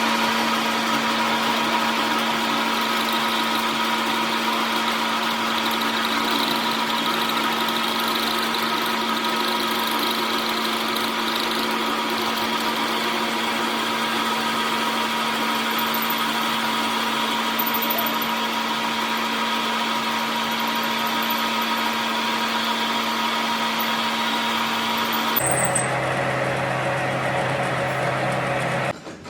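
A machine motor running steadily with a constant hum. Near the end the hum drops to a lower pitch, and a few seconds later it stops.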